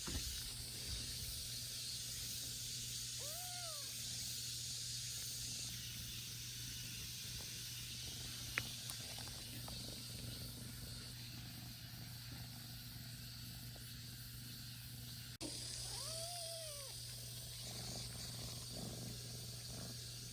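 A cat meowing twice, each meow rising and then falling in pitch, about thirteen seconds apart, over a steady high hiss.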